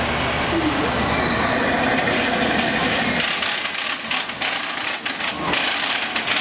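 Steady mechanical running noise of a moving theme-park ride vehicle. About halfway through the low hum drops away and a quick run of rattling clicks follows for about two seconds.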